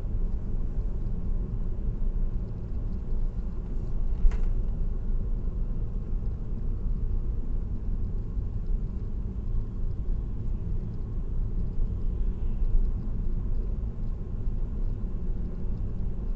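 Steady road noise of a car cruising on an expressway: a low, even rumble of tyres and engine. A single short click about four seconds in.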